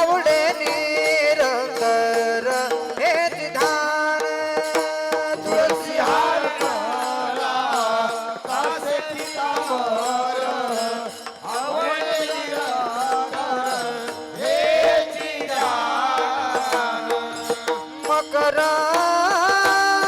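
A man singing a devotional Marathi bhajan in long, wavering melodic lines, with tabla and held tones underneath.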